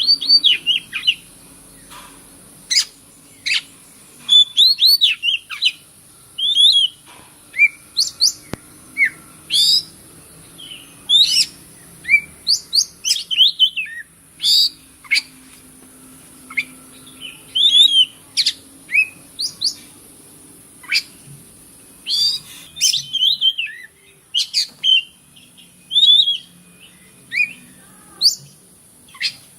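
Oriental magpie-robin singing: a rich, varied song of short sharp whistles and chirps in quick phrases, broken by brief pauses, over a steady high hiss.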